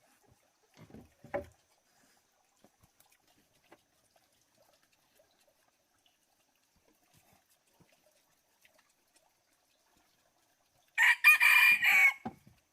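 One loud bird call lasting about a second near the end, after a brief faint sound about a second in; otherwise near silence.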